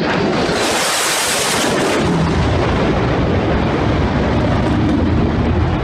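Fighter jet passing low overhead: loud, steady jet-engine noise. A hissing high edge dominates for the first couple of seconds, then gives way to a deep rumble.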